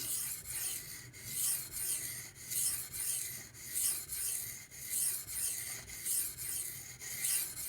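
Steel knife edge being stroked back and forth across a Pride Abrasive 1000-grit whetstone, a light hissing scrape about two strokes a second.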